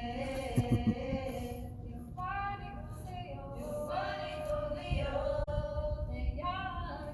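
Young girls singing unaccompanied, a sung melody with short breaks between phrases, with a few dull low bumps about half a second in.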